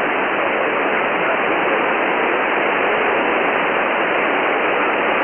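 Steady hiss of 10-metre shortwave band noise from an Elad FDM-S3 software-defined receiver in single-sideband mode, with no station audible on the frequency. The hiss is cut off above about 3.5 kHz by the receiver's voice filter.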